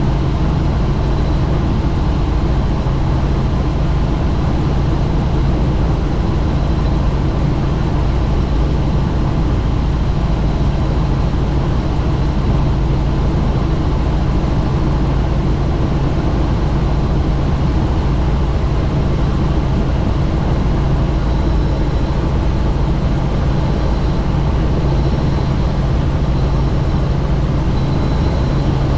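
Helicopter in flight with the doors off: a steady, even drone of rotor and engine, with wind rushing over the microphone.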